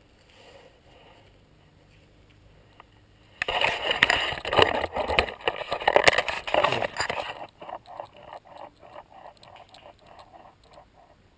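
Handling noise from a headlamp and its elastic headband being fitted close to the microphone: loud rustling and scraping for about four seconds after a quiet start, then a run of fainter quick ticks.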